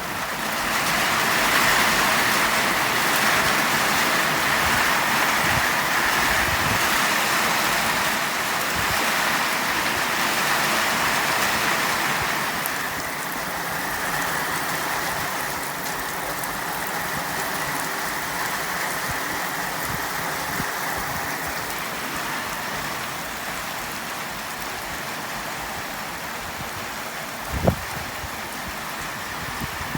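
Steady heavy rain splattering on a zinc-sheet roof, a dense even patter that eases slightly about halfway through. A single short thump near the end.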